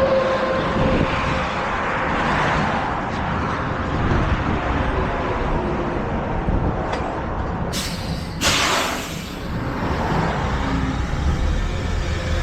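Heavy truck running and moving off. Two short air-brake hisses come about eight seconds in.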